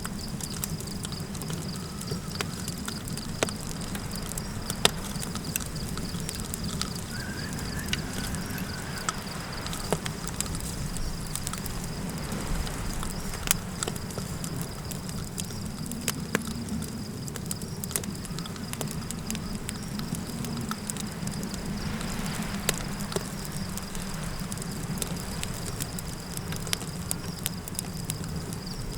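Campfire crackling, with irregular sharp pops, over a steady low wind rumble, while crickets keep up a steady high chirping. A faint, brief high call rises and falls about seven seconds in.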